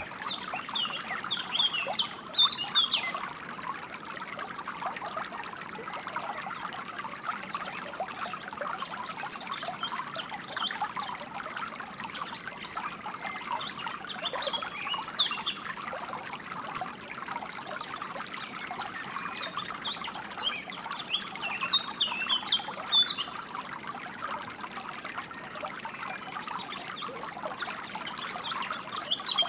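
Water trickling and splashing steadily, like a small stream. Songbirds chirp over it in short bursts, several times.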